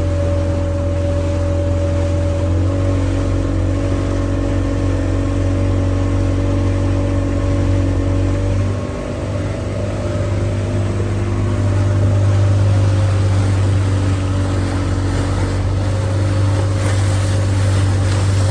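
Motorboat engine running steadily, heard from on board. The engine note drops briefly about halfway through, then picks up and runs a little louder.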